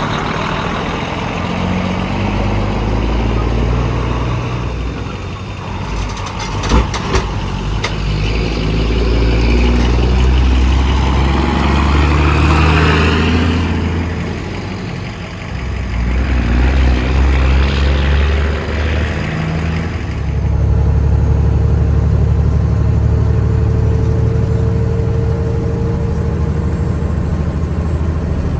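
Semi truck's diesel engine running under way, its pitch rising and falling several times as it pulls through the gears, settling into a steady drone about twenty seconds in. Two short sharp knocks about seven seconds in.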